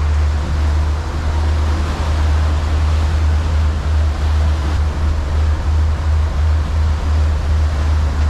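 Fishing boat's engine running with a steady low drone, mixed with wind and rushing water noise as the boat moves.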